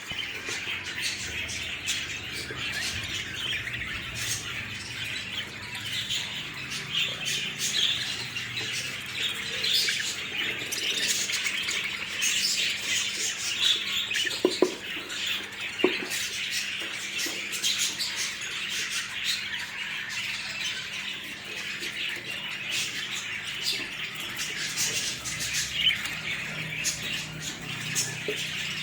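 Budgerigars chattering with a continuous run of chirps and squawks, with two brief knocks about halfway through.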